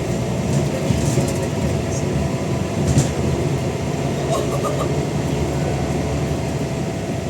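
Scania N94UD double-decker bus engine and ZF automatic gearbox running under way, a steady laboured thrash. There is a sharp rattle about three seconds in and a few short high beeps about halfway through.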